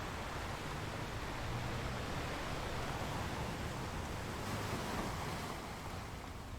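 Ocean waves washing in a steady rush of surf, swelling a little in the middle and easing off near the end.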